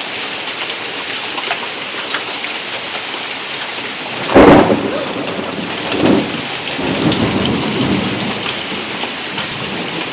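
Heavy hail and rain pelting down, a steady hiss full of small sharp impact clicks from quarter-sized hailstones. About four and a half seconds in comes a loud, deep burst of thunder, with a second, shorter one about a second and a half later and a low rumble after it.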